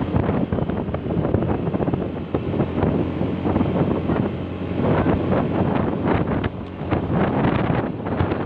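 Heavy wind buffeting the microphone while riding, with a vehicle engine running underneath.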